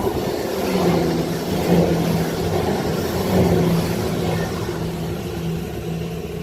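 A train passing close by, its engine running with a steady low note over the rumble of wheels and rails. The sound swells up in the first second and stays loud.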